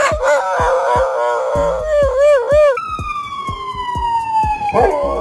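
A dog howling: a wavering, warbling howl for the first few seconds, then one long howl falling slowly in pitch, over background music with a steady beat.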